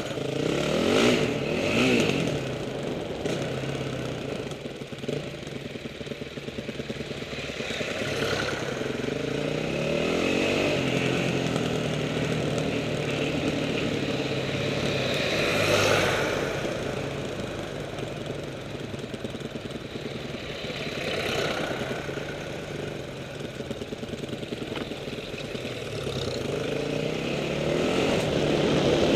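Vintage tractor engines running as tractors pass along a byway. The sound swells and fades as each one goes by, with the pitch gliding up and down, loudest about a second in, around the middle and building again near the end.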